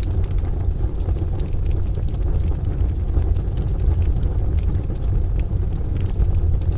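Wood stove fire crackling, with scattered sharp pops, over a steady low rumble of rain and distant thunder.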